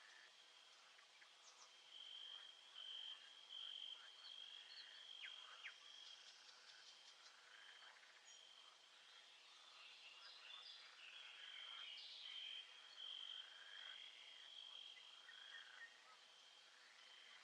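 Faint nature-sounds ambience: a high, steady trill that drops out briefly now and then, with scattered short chirps and calls over it.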